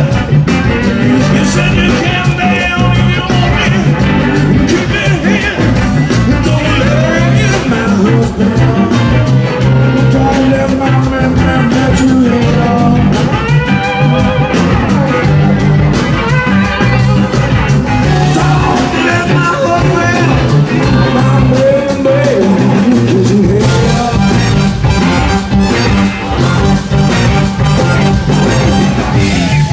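Band music led by guitar, with pitched lines gliding up and down over a steady beat.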